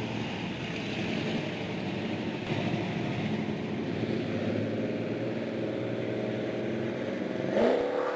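Car engine running with an uneven rumble, revving up with a rising pitch near the end.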